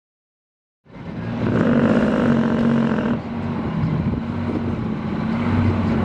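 Large truck engine running steadily, cutting in abruptly about a second in.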